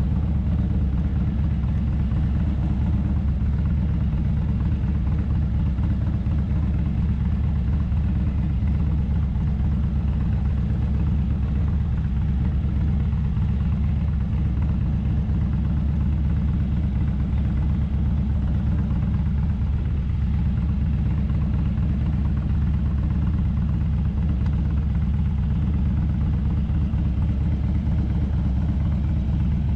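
Motorcycle engine running at a steady pace while riding, a low, even rumble with no revving.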